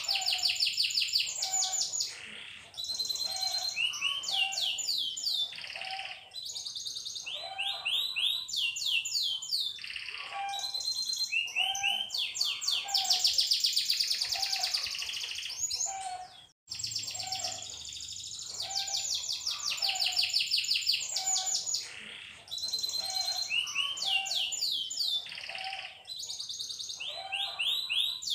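Canary singing a long, continuous high-pitched song of rapid trills and rolls. Each phrase is a quick run of repeated notes, and the phrases change every second or two. About two-thirds of the way through there is a brief sudden break, after which the song resumes.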